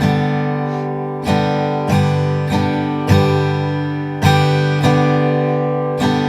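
Acoustic guitar strummed on a G major chord with the fingers, index finger striking down and thumb striking up, about eight strums in the down, down, up, up, down, up country accompaniment pattern, played at a faster tempo.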